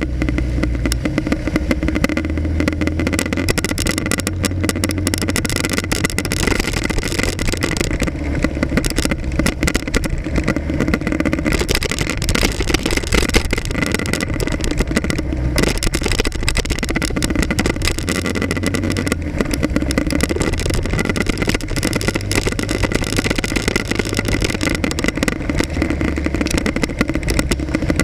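Motorcycle running through city traffic, its engine rising and easing with the throttle, with road and traffic noise, picked up by an action camera mounted on the front of the bike.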